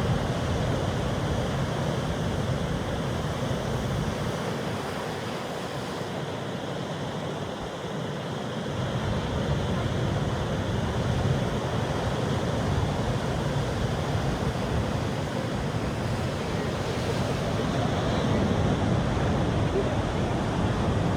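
Ocean surf: a steady rush of breaking waves, easing a little a few seconds in and building again later.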